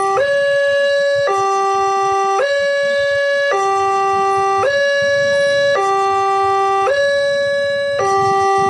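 Railway level-crossing warning alarm sounding an electronic two-tone signal, switching evenly between a higher and a lower tone about once a second. It signals that a train is approaching and the crossing barriers are closing.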